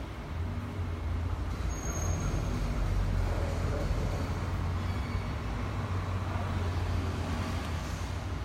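Steady street traffic noise with a continuous low engine hum.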